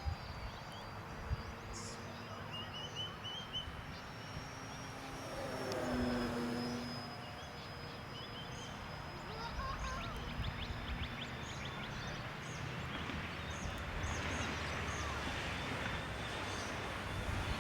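Electric motor and propeller of an E-flite Apprentice RC plane in flight, a thin steady whine that gets louder on one pass about six seconds in, with birds chirping and outdoor ambience.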